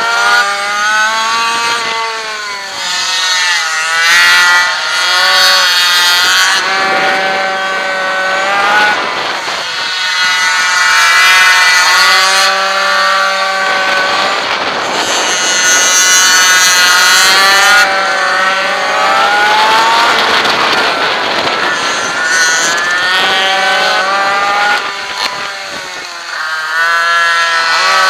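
Racing minimoto's small two-stroke engine, heard onboard, revving up in pitch along the straights and dropping back into the corners, over and over. At times other minibike engines can be heard alongside it.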